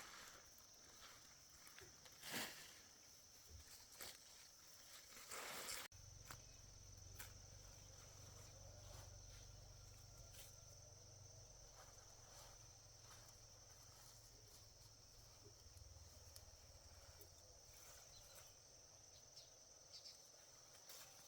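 Faint outdoor ambience: a steady high-pitched drone of insects such as crickets, with scattered small clicks and rustles of handling. After an abrupt cut about six seconds in, a low hum is added underneath.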